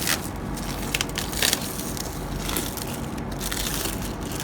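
Irregular crackles and clicks, as of something being handled, over a steady low hum.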